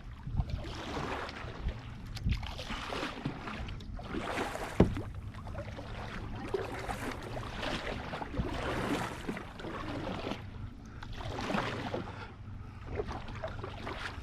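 Kayak paddle strokes swishing through pond water, a swell of splashing every second or two, with a sharp knock about five seconds in.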